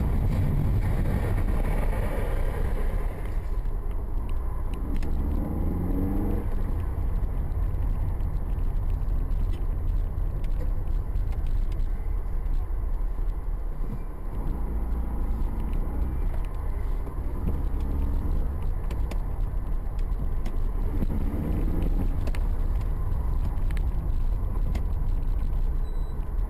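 A car driving, heard as a steady low engine and road rumble, with a few faint pitched swells now and then; it cuts off suddenly at the end.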